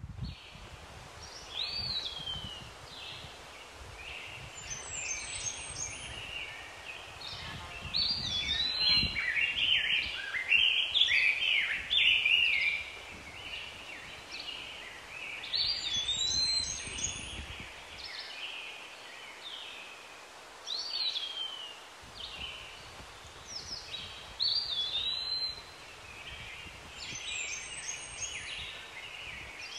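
Wild birds calling and singing, led by a short whistle that slides downward and recurs about five times. A third of the way in there is a busier stretch of overlapping chattering calls.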